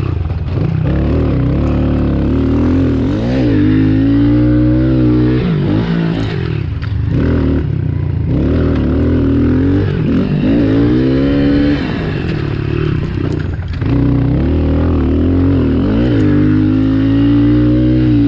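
450cc motocross bike engine revving up and down again and again as it is ridden around a dirt track, the throttle opening and closing between jumps and turns, with a few brief drops in engine pitch.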